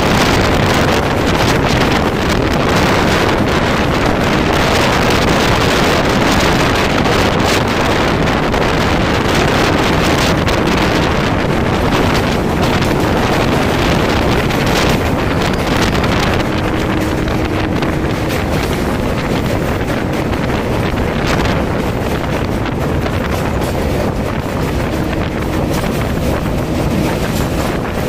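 Steady loud rush of a passenger train running over a steel truss bridge, heard from an open coach doorway: wheels running on the rails, with heavy wind buffeting the microphone. From about halfway through, the coaches of a second train passing close on the adjacent track add their own rush.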